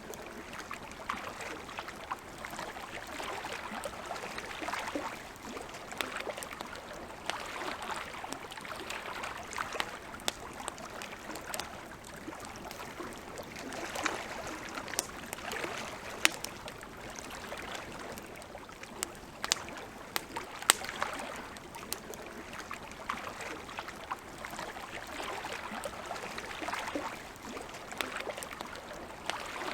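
Wood campfire crackling, with sharp pops scattered irregularly through a steady rushing hiss that swells and fades every few seconds.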